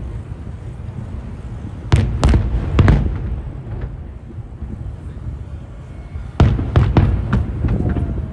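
Aerial firework shells bursting with deep booms: three bursts about two to three seconds in, then a quicker run of four or five near the end, with a low rumble carrying on between them.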